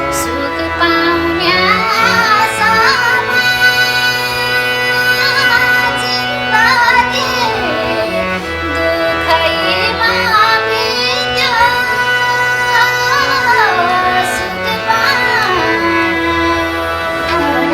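A woman singing a Nepali folk song in the thade bhaka style, with an ornamented, sliding melody over steady instrumental accompaniment.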